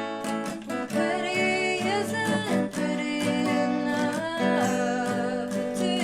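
Acoustic guitar strummed, with a wordless sung line sliding over it in the middle of the passage: the closing bars of a guitar-and-voice song.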